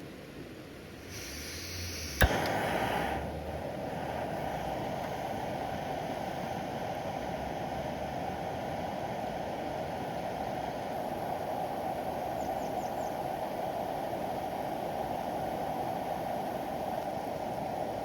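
A sharp click about two seconds in, then a steady, even rushing of water that carries on unchanged.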